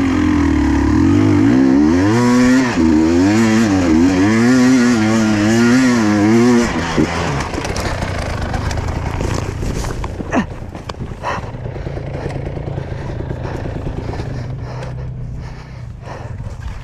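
Enduro dirt bike engine revving, the throttle worked up and down over and over for about seven seconds, then dropping to a low steady idle. A couple of sharp knocks or scrapes come about ten seconds in.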